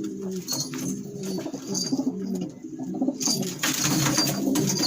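Domestic pigeons cooing, several birds overlapping in a steady chorus of low coos. From about three seconds in a rustling noise joins them.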